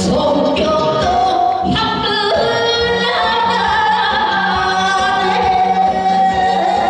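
A singer singing a Korean trot song over instrumental accompaniment. About three seconds in, the singer holds one long note with vibrato.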